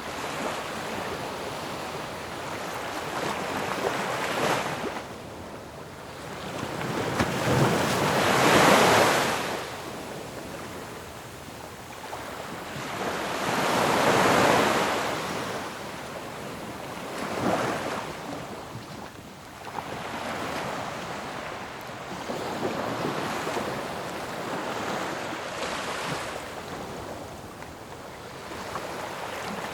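Ocean waves breaking on a shore: a steady wash of surf with waves building and crashing every few seconds, the two largest about a third and halfway through.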